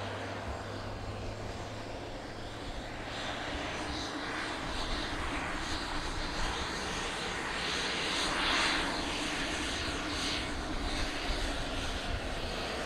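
Aircraft engines running, a steady noise that grows a few seconds in and then wavers up and down.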